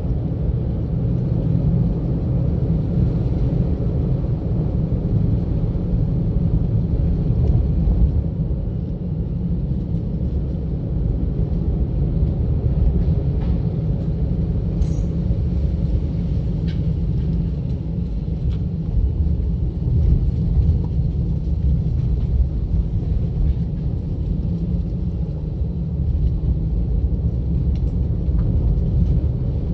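A car driving steadily, heard from inside the vehicle: a constant low rumble of road and engine noise, with a few faint ticks and one short sharp click about fifteen seconds in.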